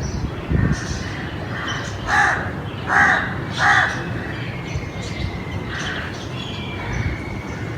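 Crows cawing: three loud caws in a row about two seconds in, with fainter caws before and after, over steady low background noise.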